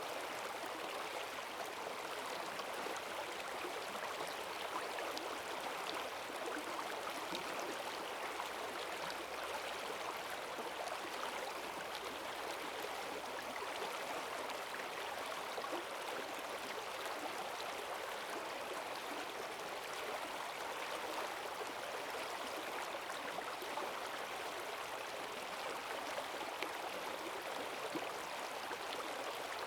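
Forest stream swollen by heavy rain, its water rushing and splashing over rocks in a strong current, steady throughout.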